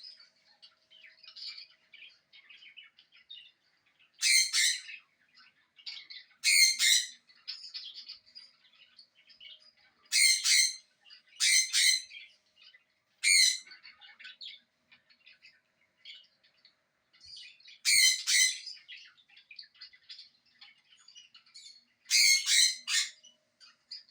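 Parrot squawks: loud, harsh, short calls every few seconds, with softer bird chirping and twittering in between.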